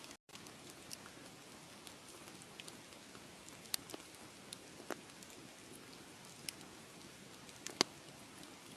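Wood fire crackling: a steady soft hiss with scattered sharp pops, a few louder ones, the loudest near the end. The sound cuts out completely for a moment just after the start.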